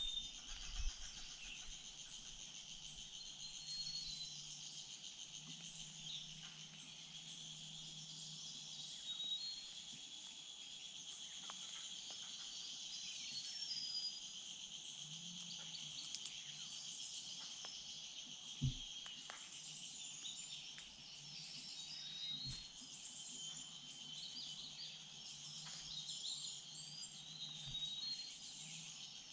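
Steady chorus of insects, crickets or cicadas, with short bird chirps scattered through it. A few sharp knocks occur, the clearest about two-thirds of the way through.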